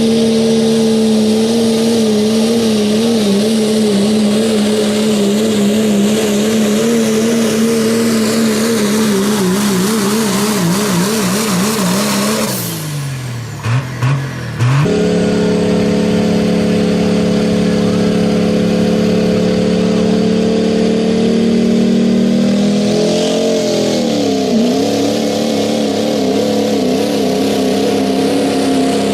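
Turbo diesel pickup engine of a pulling truck run hard at high, steady revs, its pitch wobbling before it falls away and breaks off about halfway through. After a short gap a diesel engine is again held at high, steady revs, with a brief dip in pitch near the end.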